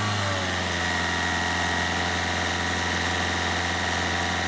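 Car engine held steady at about 2500 rpm after a brief rev-up, settling in the first half second, with a steady high whine over it. All the electrical loads are switched on to test the alternator's charging under load.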